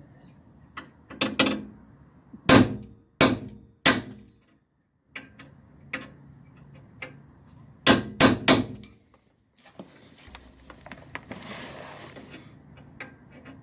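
Hammer striking a center punch on steel, marking where a broken shock stud will be drilled out: a lighter tap, then two groups of three sharp blows a few seconds apart.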